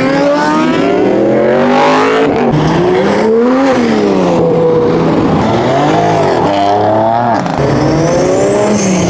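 Car engine revving hard, its pitch climbing and dropping several times.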